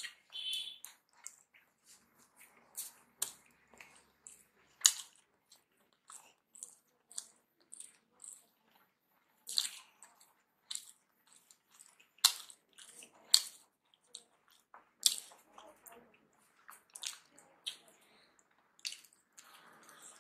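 Close-miked eating: chewing with irregular sharp, wet mouth clicks and smacks, a few much louder than the rest, along with fingers squishing rice on a plate as it is mixed by hand.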